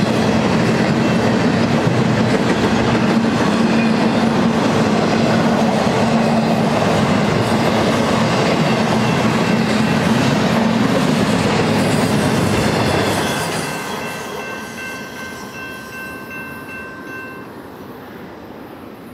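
Double-stack intermodal freight train rolling past close by, a steady rumble and rattle of wheels on rail. About 13 seconds in the last car goes by and the sound fades as the train moves off, with a steady high ringing for a few seconds.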